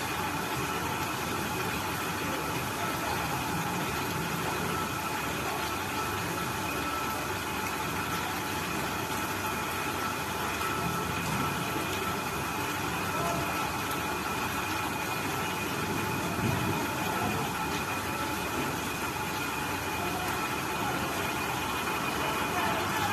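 Steady rain falling, an even hiss with no break, over a faint steady high hum.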